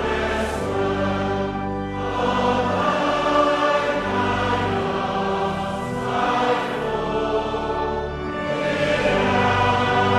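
Choir singing a hymn in harmony, in slow held chords, with short breaks between phrases about two seconds in and again near eight seconds.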